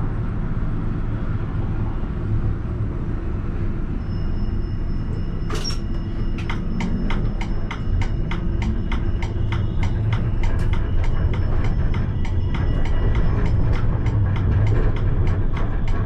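Alstom Citadis tram running along the track, heard from the driver's cab as a steady low rumble. From about a third of the way in there is a fast run of sharp clicks, several a second, and a faint high steady whine.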